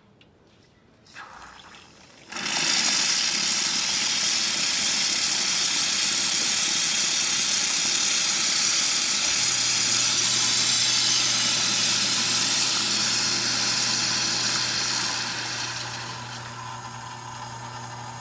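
Rocket R58 espresso machine's hot water wand dispensing hot water: a loud, steady hiss and splash that starts about two seconds in and eases off near the end, the wand working normally after its defective steam valve was replaced. A steady low hum from the machine joins about halfway through.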